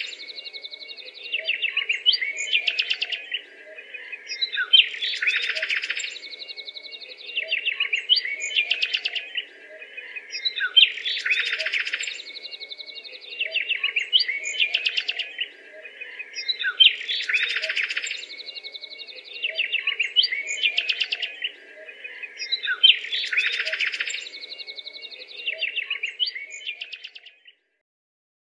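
Birdsong of chirps and trills, the same phrase repeating about every six seconds like a looped recording, over a faint steady low tone. It stops shortly before the end.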